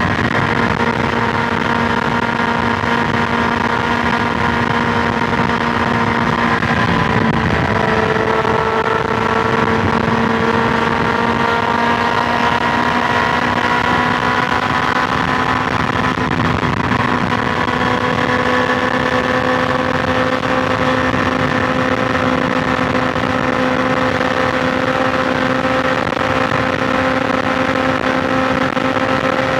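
BMW S1000XR inline-four engine cruising at a steady highway speed over constant wind and road noise. Its pitch dips slightly about a quarter of the way in, then climbs slowly as the bike gathers speed.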